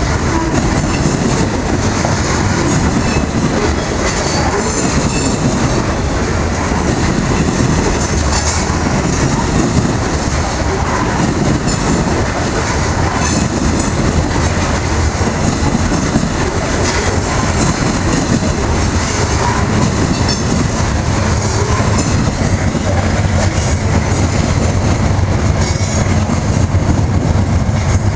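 Loaded freight train's grain hopper cars rolling past: a steady rumble of steel wheels on rail with clickety-clack over the rail joints and some wheel squeal. A low steady hum builds near the end.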